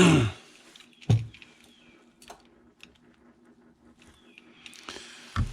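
Small tool-on-metal clicks and scratches as a screw is worked into the pressure washer pump's valve pocket to grab broken valve pieces stuck inside, with a sharp knock about a second in and a low thud near the end.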